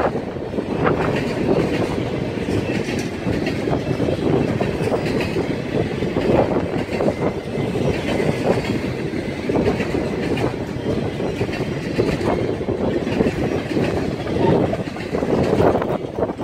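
Freight train of boxcars rolling past: steel wheels running on the rails with a continuous rumble and repeated clicks of the wheels passing over the rail joints.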